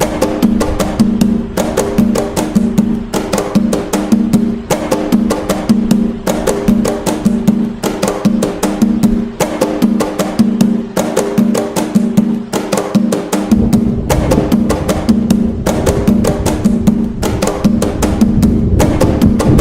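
Atabaque drums playing the nagô rhythm (toque de nagô) in a quick, steady stream of sharp strokes over ringing drum tones. About thirteen seconds in, a deeper low layer comes in and stays.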